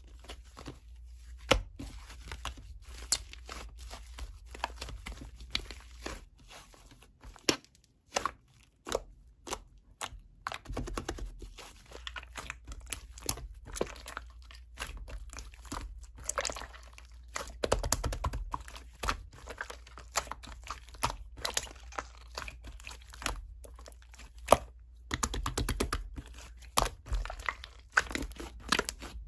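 Slime being squeezed and poked by hand: a steady stream of sticky clicks, crackles and pops, with a few sharper snaps standing out.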